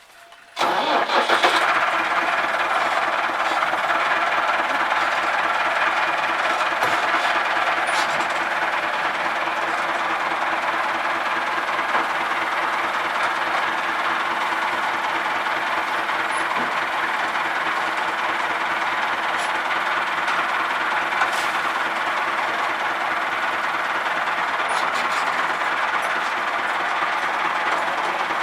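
Massey Ferguson 385 tractor's four-cylinder diesel engine running a tractor-driven chaff cutter (toka machine), a loud steady mechanical din that starts abruptly about half a second in.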